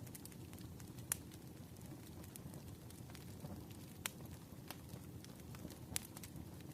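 Faint crackling-fire ambience: a steady low rush with four sharp, scattered pops, the last and loudest just before the end.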